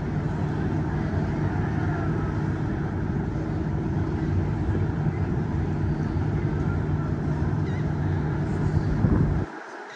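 Steady low engine rumble with a constant hum. It cuts out abruptly for about half a second near the end.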